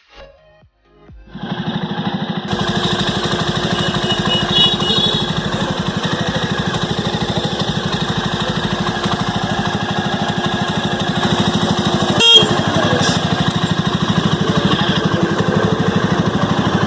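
Jawa Standard's 293cc single-cylinder engine running steadily with an even, rapid exhaust beat. It comes in sharply about a second in, and there is one sharp crack about twelve seconds in.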